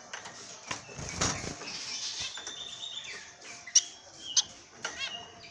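Pet birds fluttering and flapping their wings, with short chirps, and two sharp clicks standing out in the second half.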